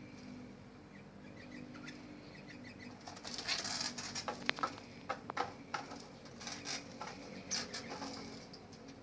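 Pigeons' wings flapping in a burst of quick, clattering wingbeats that starts about three seconds in and dies down near the end.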